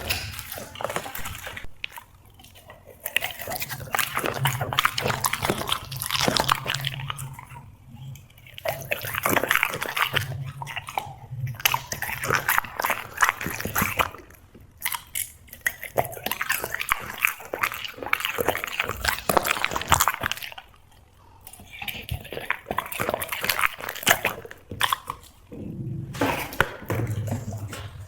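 A dog chewing and biting food noisily, crunching in spells of a few seconds with short pauses between.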